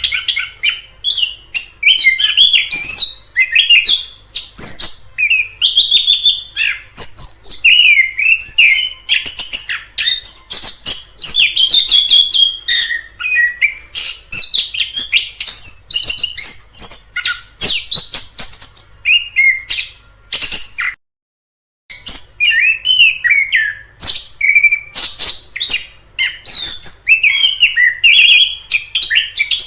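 Orange-headed thrush singing a long, varied stream of rapid whistled phrases, trills and chirps with quick up-and-down glides. About two-thirds of the way through the sound cuts out completely for about a second before the song resumes.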